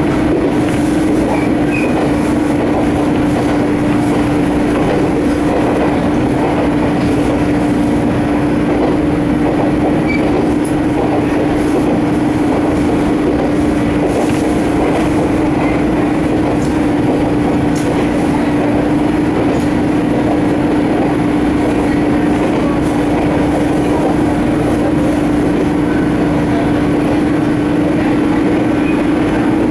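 Jōmō Electric Railway 700 series electric train (a converted Keio 3000 series car), heard from inside the car as it runs along the track: a steady rumble of wheels and running gear with a constant hum.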